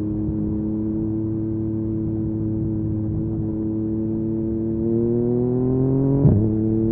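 Yamaha MT-09's three-cylinder engine through an Akrapovic carbon exhaust, running steadily, then rising in pitch from about four and a half seconds in. A short sharp crack comes about six seconds in, and the pitch drops back after it.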